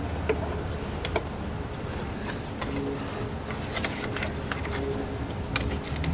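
Scattered light clicks and taps of a tool and hands working plastic push-pin retainers loose in the engine bay, over a steady low hum.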